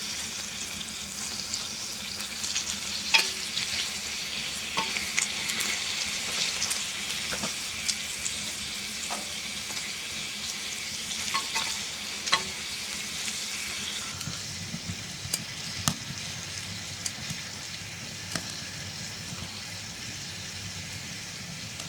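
Food frying in a pan: a steady sizzle with scattered sharp clicks and taps of a utensil stirring and scraping, the food sticking to the pan. The sizzle eases somewhat about two-thirds of the way through.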